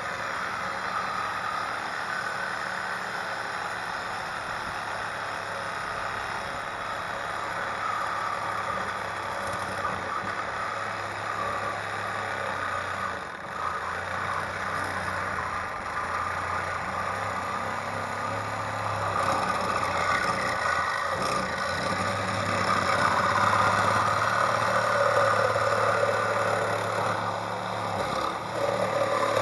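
Ford 5.0-litre V8 of a 1991 Crown Victoria idling with no muffler fitted, a steady exhaust sound that grows somewhat louder about twenty seconds in.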